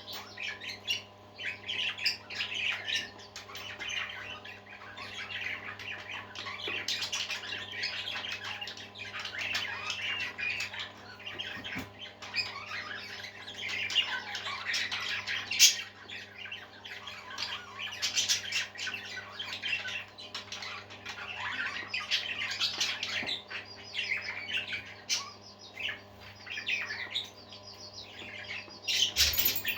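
A flock of parakeets chattering, chirping and squawking without a break, many calls overlapping. A steady low hum runs underneath.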